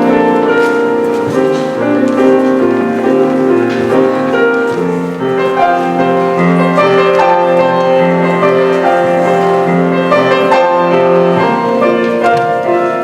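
Instrumental music led by piano, playing a run of held chords and melody notes.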